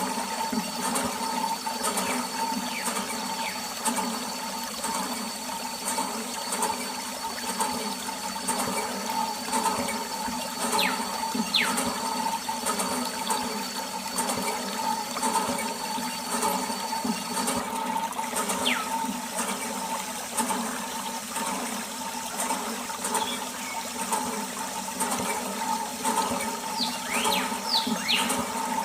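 Water running and splashing steadily, with a steady hum under it.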